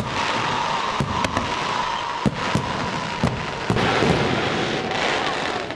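Aerial fireworks display: several sharp bangs of shells bursting, a few seconds apart, over a continuous dense crackle.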